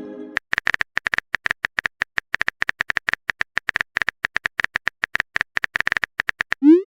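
Phone keyboard typing sound effect: a rapid, uneven run of short clicks. Just before the end, a short rising chime sounds, like a message-sent alert.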